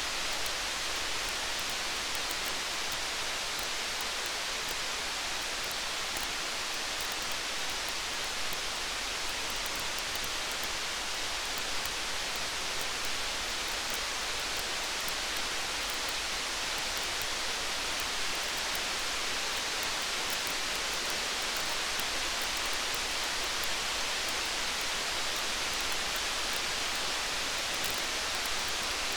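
Steady rain, an even hiss with faint fine ticks scattered through it.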